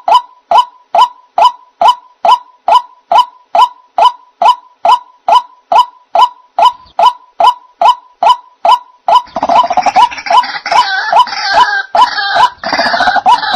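White-breasted waterhen (ruak-ruak) lure call: loud short calls repeated at about two a second. About two-thirds of the way in they become a denser, overlapping chorus of harsher calls.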